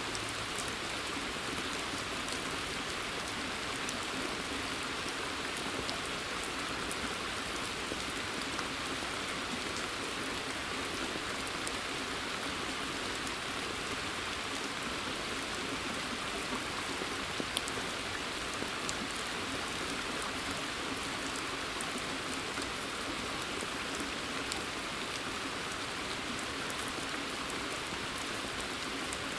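Steady rain: an even hiss with many scattered drop ticks, one a little louder about 17 seconds in.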